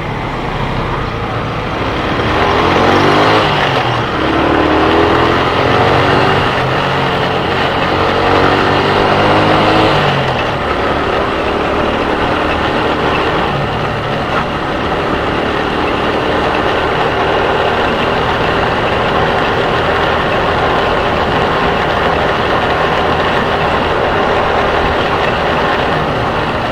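Motorcycle engine pulling away, its pitch climbing in first gear, dropping about four seconds in and climbing again, then dropping at about ten seconds in as it shifts up and running steadily after that.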